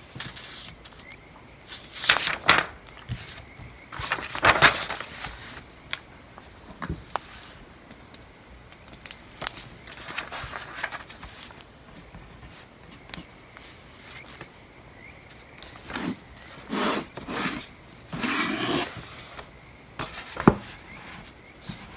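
Pencil writing on paper at a desk: scattered scratchy strokes and paper rustles lasting up to a second or so, with a few sharp taps, the loudest just before the end.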